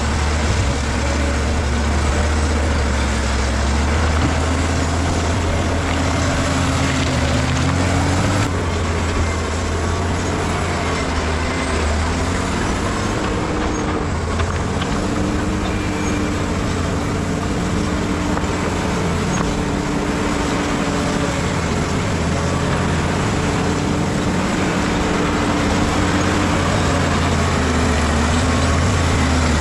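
Bulldozer's diesel engine working under load, a steady heavy drone whose pitch rises and falls as the load changes.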